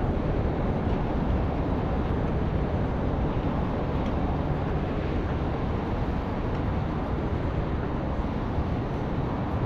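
Steady low rumble of vehicle noise with no distinct knocks or clicks.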